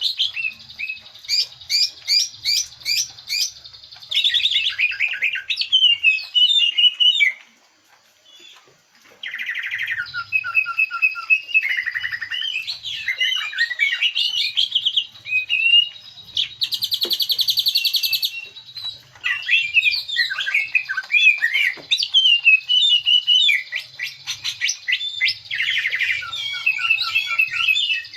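Cucak ijo (leafbird) singing a fast, varied song of chirps, trills and rapidly repeated notes, bringing out its isian, the mimicked calls of other birds. There is a short pause about eight seconds in.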